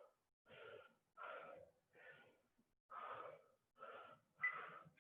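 Faint, rhythmic hard breathing from a person exercising, with short breaths about every three-quarters of a second, the sound of exertion during a set of lunges.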